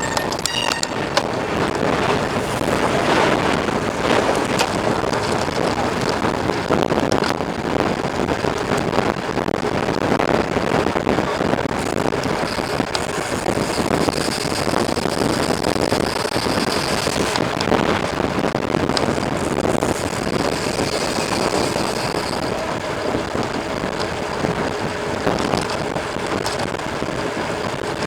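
Steady rushing noise of a mountain bike being ridden: wind on the microphone and the bike rolling over the trail, without a break.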